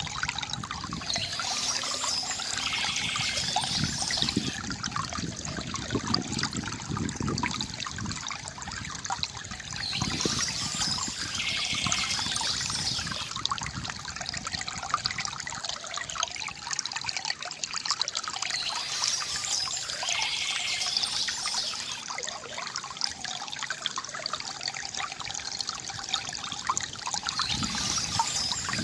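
Water trickling and gurgling from a bamboo fountain, steady throughout, with a brighter high splashing hiss swelling about every nine seconds.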